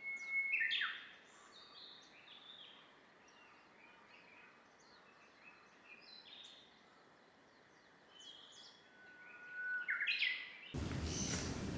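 Wild birds calling: many short, varied chirps and whistled notes, loudest near the start and again about ten seconds in. Near the end a louder, steady noise cuts in suddenly over them.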